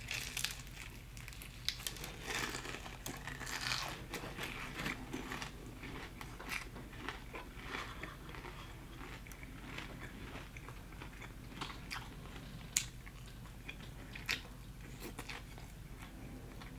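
A person biting into and chewing crispy fried chicken close to the microphone: irregular soft crunches of the breading and small wet mouth clicks.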